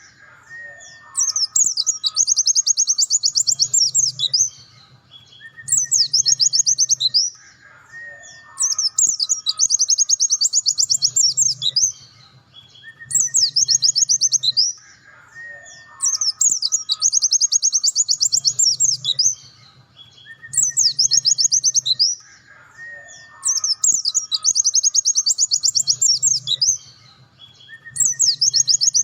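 Pleci dakun (white-eye, Zosterops) singing its 'nembak' song in loud, high-pitched phrases repeated about every three and a half seconds. Each phrase is a short sweeping note followed by a long, very fast trill.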